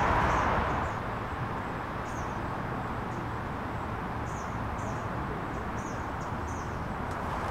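Steady outdoor background noise with faint, high bird chirps scattered through it.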